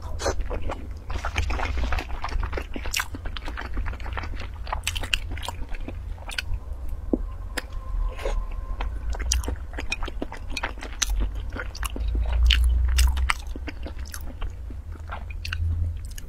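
Close-miked mouth sounds of chewing and biting soft, gelatinous century eggs: a dense run of wet smacks and clicks, over a steady low rumble.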